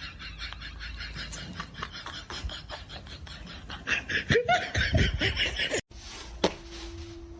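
People laughing in quick repeated bursts, getting louder about four seconds in. The sound cuts off suddenly near six seconds, and a quieter stretch follows with a single sharp click.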